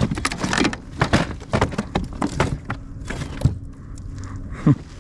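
Clatter of a freshly caught chain pickerel being landed and handled in a kayak: rapid, irregular knocks and rattles for the first few seconds, then a couple of single sharper knocks.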